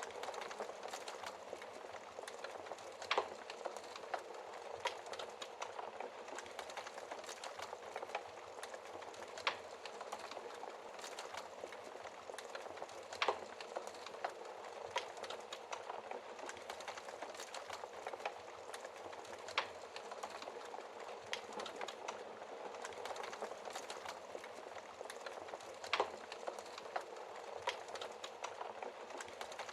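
Wood fire in a fireplace burning steadily with a continuous dense crackle and a sharp pop from the burning wood every few seconds.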